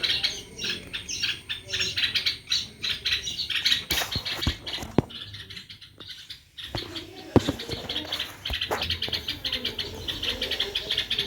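Small birds chirping and chattering rapidly and continuously, with a few sharp clicks or knocks about halfway through.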